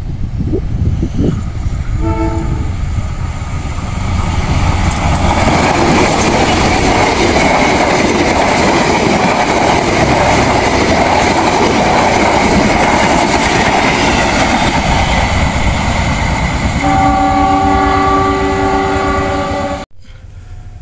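A diesel-hauled passenger train speeding past close by: a short horn note about two seconds in, then the loud rushing noise of the coaches' wheels on the rails. Near the end a long horn blast of several tones sounds, the warning signal (semboyan 35) Indonesian trains give.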